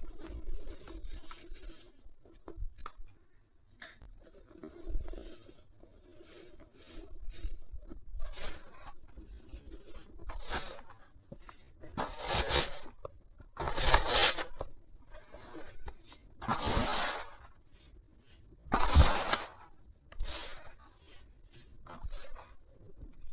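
Something being crumbled, a series of crunching, crackling bursts, with four louder crunches in the second half.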